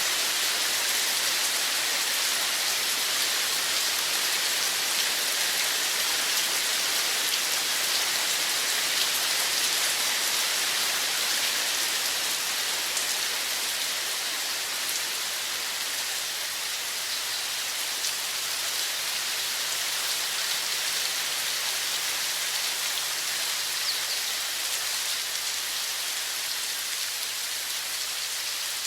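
Steady running water: an even hiss, brightest in the upper range, with no breaks.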